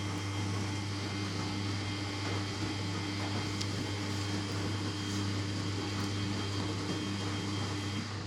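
Samsung P1271 washing machine running with a steady low hum, which cuts off suddenly at the end.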